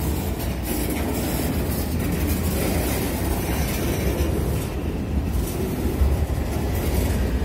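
CN freight train of covered hopper cars rolling past: a steady rumble of steel wheels on the rails.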